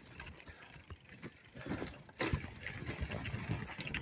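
Mountain bike on the move, heard through a phone microphone in the rider's pocket: rustling from the clothing rubbing on the microphone, with scattered knocks and rattles. It grows louder about two seconds in.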